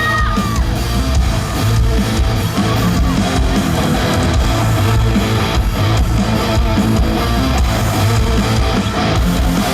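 Live band playing an instrumental passage: strummed electric guitar over bass and a steady drum beat.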